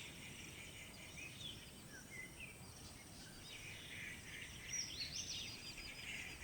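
Faint jungle ambience of scattered bird calls: short chirps and quick whistled glides, thicker for a moment about five seconds in, over a low background hiss.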